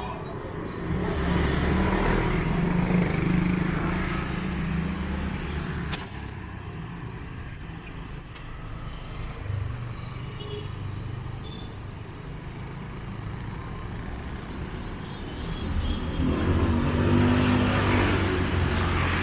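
Street traffic: motor vehicle engines passing close by, louder for the first few seconds and again near the end, with a quieter bed of traffic noise in between.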